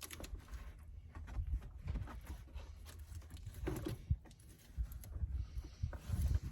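Irregular knocks, taps and handling noise from hand work taking apart an RV's interior, over a steady low rumble.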